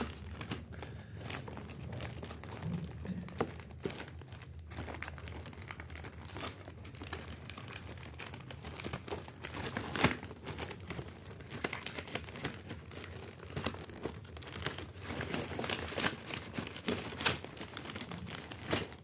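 Parcel packaging crinkling and rustling in irregular crackles as it is handled and pulled open, with one louder crackle about halfway through.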